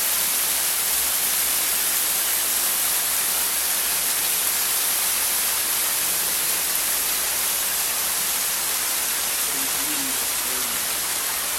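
Water falling at the frozen Suatkan waterfall: a steady, even rushing hiss. A faint voice is heard briefly near the end.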